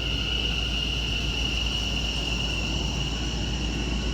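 Steady high-pitched electrical whine from a train standing at the platform, over a constant low rumble.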